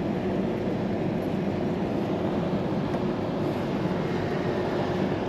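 Rooftop air-conditioning equipment running: a steady hum with a constant low tone under a noisy fan rush.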